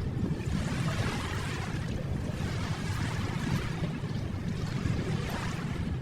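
Ocean waves washing on a shore: a steady low rumble of surf with a hissing wash that swells and eases.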